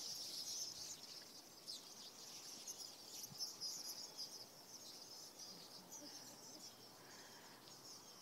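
A large flock of birds calling, many faint high chirps overlapping into a continuous chatter that thins out after the first few seconds.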